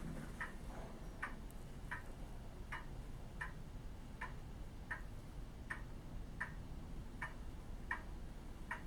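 Clock ticking steadily, about four ticks every three seconds.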